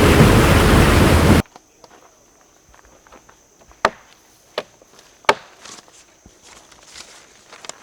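A loud, even rushing noise that cuts off abruptly after about a second and a half, followed by quiet footsteps on a woodland trail, with three sharp knocks about two-thirds of a second apart in the middle.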